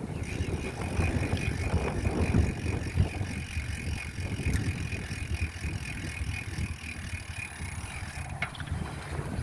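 Bicycle freewheel hub ticking rapidly and evenly while the bike coasts, stopping with a click near the end, over a constant low rumble of wind and road.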